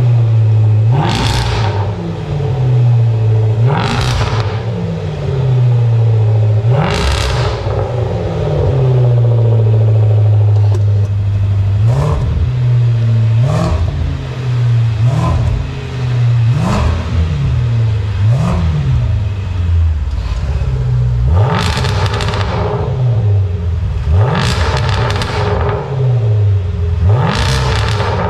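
Range Rover Sport SVR's 5.0-litre supercharged V8 being revved while standing still, with the sport exhaust valves open. About a dozen sharp blips rise from a steady idle and fall back, one held longer about seven seconds in, with short quick blips in the middle and bigger ones near the end.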